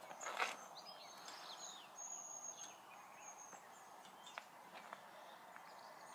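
Faint outdoor birdsong: a thin high trill that comes and goes, with a few short falling chirps in the first couple of seconds. There is a brief rustle about half a second in.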